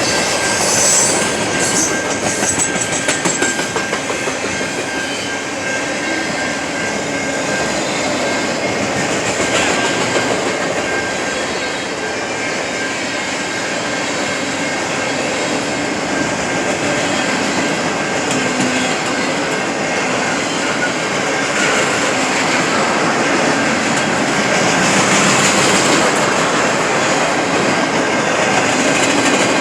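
Train cars rolling steadily past, with the continuous rumble and rattle of wheels on rails and a faint steady squeal.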